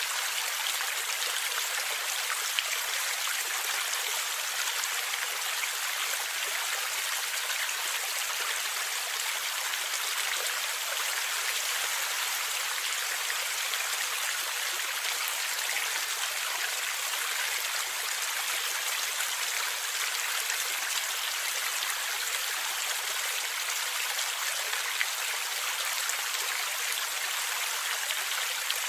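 Water flowing and gurgling steadily in a stream, an even rush with little low rumble and a couple of brief sharper ticks, one about two and a half seconds in and one near the end.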